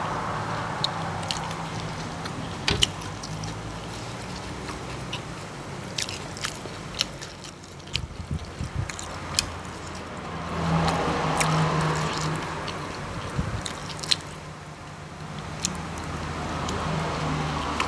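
Close-up eating sounds: chewing and biting on Isan jackfruit salad, with many short, scattered clicks from the mouth and fingers handling the food. A low background hum swells and fades about halfway through and again near the end.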